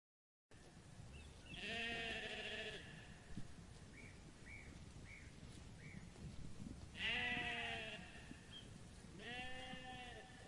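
A flock of sheep bleating: three long bleats with quieter outdoor background between them, and four short high peeps about halfway through.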